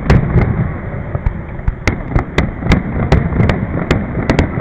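Fireworks display: a rapid, irregular run of sharp bangs, about fifteen in four and a half seconds, over a continuous low rumble of shells bursting.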